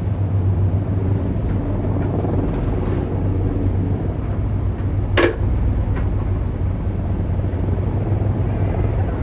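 Steady low outdoor rumble of vehicles, with a single sharp click about five seconds in.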